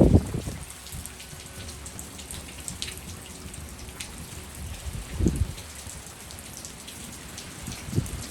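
Heavy rain falling steadily, with gusts of wind buffeting the microphone in low rumbles three times: at the start, about five seconds in, and near the end.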